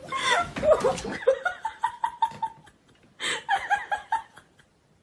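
A person laughing in quick bursts, with a short pause near the middle. The laughter stops a little before the end.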